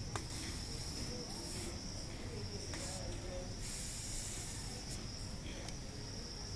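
Electric geyser heating element, switched on out of the water while still wet, hissing steadily at a high pitch as the moisture on it boils off, with a few faint crackles.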